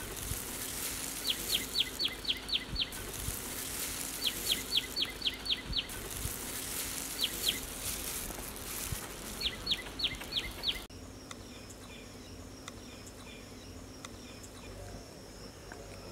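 A songbird repeating a phrase of about six quick downward-sliding chirps every three seconds or so, over a high hiss. The song and hiss cut off abruptly about eleven seconds in, leaving a quieter background with a faint, thin, steady high tone.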